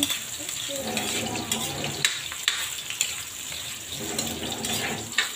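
Onion, garlic and ginger sizzling in hot oil in an aluminium wok, with a steady frying hiss. A metal ladle scrapes and clicks against the wok now and then as they are stirred.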